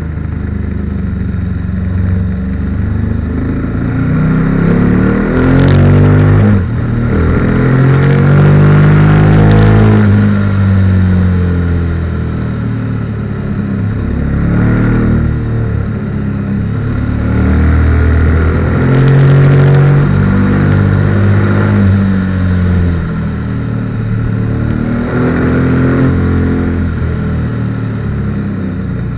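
KTM 1290 Super Duke R's V-twin engine heard from on board, the revs climbing and falling back again and again as the bike accelerates out of bends and slows for the next, with a sudden drop in revs about six and a half seconds in.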